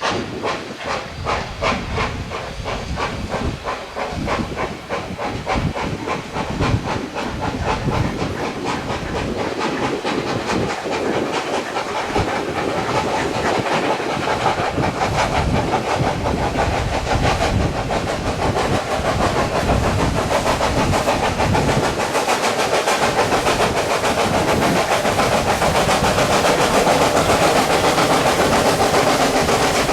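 Steam locomotive working a train: steady exhaust beats over hissing steam, the beats quickening and the sound growing louder.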